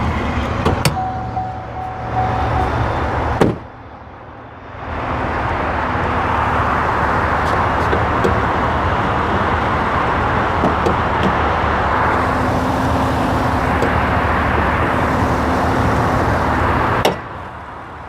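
A 6.2-litre V8 idling, heard with the hood open, with a steady rush of engine-bay noise over the low engine note. There is a sharp click about three and a half seconds in and another near the end.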